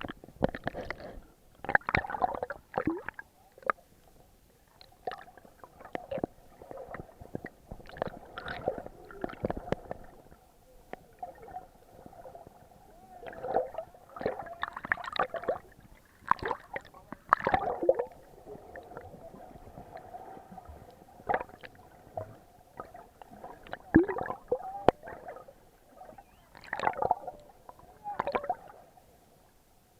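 Muffled water sloshing and gurgling around an action camera in its waterproof housing during snorkeling, in irregular bursts with sharp knocks, the loudest near the middle and about two thirds of the way in.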